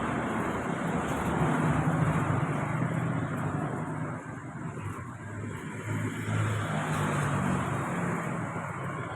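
A motor vehicle's engine running nearby, loudest about two seconds in and then fading.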